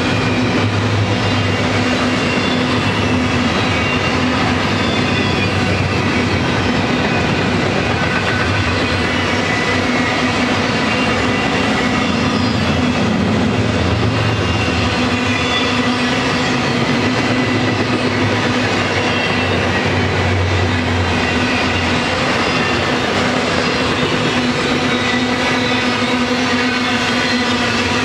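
BNSF double-stack intermodal container train rolling past: a loud, steady rolling noise of steel wheels on the rails.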